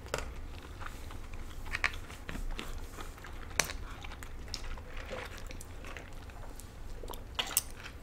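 Two people chewing poke bowl food with their mouths closed, with a few sharp clicks of spoons scraping and tapping on clear plastic bowls.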